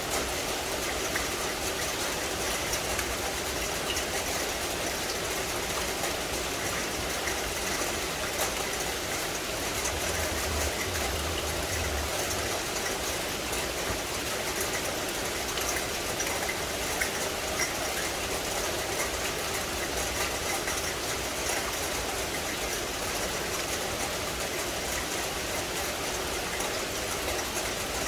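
Steady rain falling on forest foliage: a dense, even hiss dotted with fine drop ticks. A brief low rumble comes about ten seconds in and lasts a couple of seconds.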